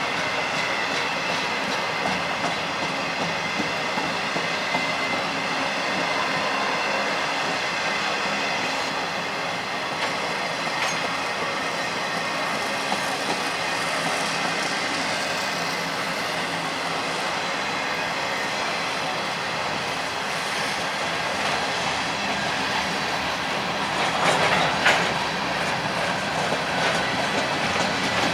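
CPKC freight cars rolling past on the curve, their wheels clicking over rail joints, with a faint steady wheel squeal. A louder burst of clattering comes about 24 seconds in.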